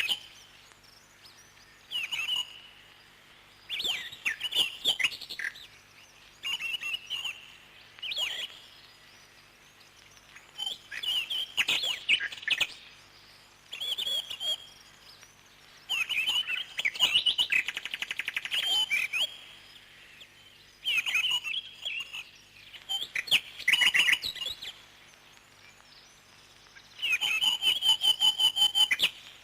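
Parrot chirping and chattering in short bursts every second or two, ending in a long run of fast repeated chirps.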